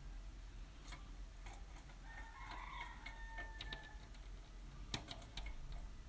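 A bird pecking at its reflection in a mirror: sharp taps at irregular intervals, a quick cluster of them about five seconds in, the loudest near then. About two to four seconds in, the bird gives a short call.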